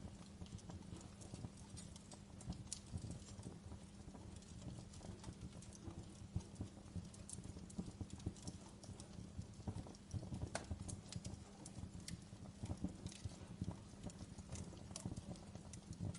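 Burning wood logs crackling in a fireplace: irregular sharp pops and snaps, a few louder ones, over a steady low rumble of the flames.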